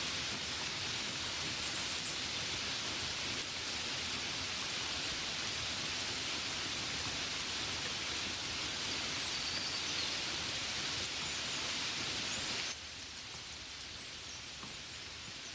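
Steady rain falling, an even hiss that drops suddenly to a softer level about thirteen seconds in.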